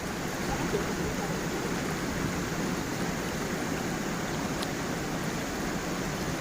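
Steady rushing and burbling of water flowing in a stream and over a small waterfall.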